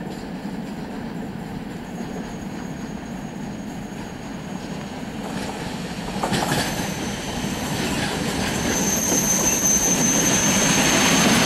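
EN57 electric multiple unit running into the station, its rumble growing louder as it comes closer. A high, steady squeal from the train comes in about two seconds in and is strongest near the end, with a single knock about six seconds in.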